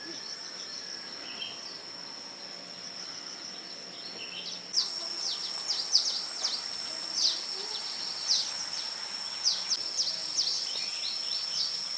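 A steady high-pitched insect drone. About halfway through, a bird joins in with a run of short, quick, descending chirps, repeated many times.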